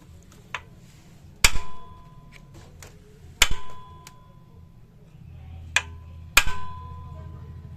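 Sharp metal-on-metal strikes, four of them, each leaving a short ringing tone: a tool struck against scooter engine parts during a teardown. A faint low hum starts about five seconds in.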